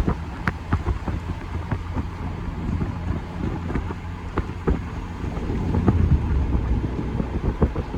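Car driving, heard from inside the cabin: a steady low road rumble with scattered sharp ticks and taps throughout.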